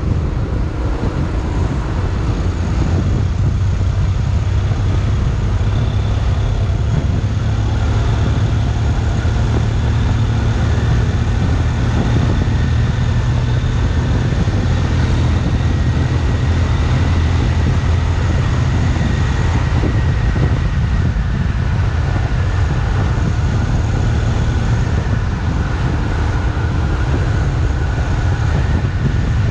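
Riding a Honda X-ADV 750 at steady speed: a constant low rumble of wind buffeting and road noise, with the parallel-twin engine's drone running evenly underneath.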